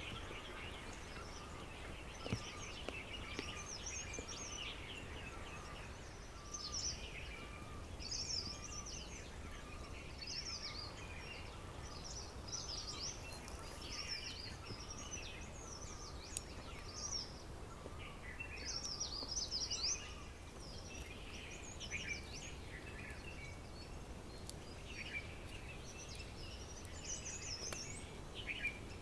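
Several wild birds chirping and singing, with short overlapping calls and trills throughout. A lower repeated note is heard in the first few seconds, over a steady low background rumble.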